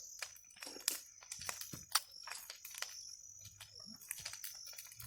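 Fire crackling in a pile of burning dry coconut husks: scattered, irregular sharp pops and snaps.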